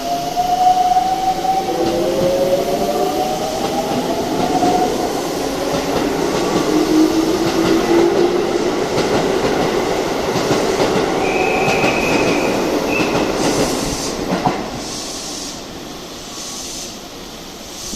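Keisei 3700-series electric train moving through the station: wheels rumbling on the rails with the traction motors' pitched whine sliding in the first few seconds. A brief high squeal comes about two-thirds of the way in. The sound then drops, with regular wheel clicks as the train passes over the rail joints.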